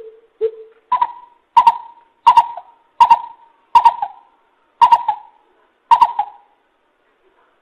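Coucal calling: a series of about nine hollow hooting notes. The first two are lower, then about seven louder, higher hoots come at a steady pace and stop about six seconds in.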